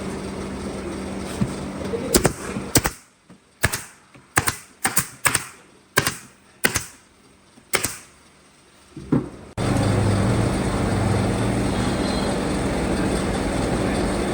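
A run of about a dozen sharp, irregular knocks over about six seconds, with quiet between them. About nine and a half seconds in, a loud steady noise starts suddenly.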